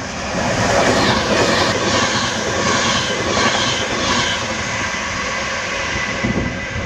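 Virgin Pendolino, a Class 390 electric express, speeding through the station: a loud rush of wheel and air noise that swells over the first second and then holds steady.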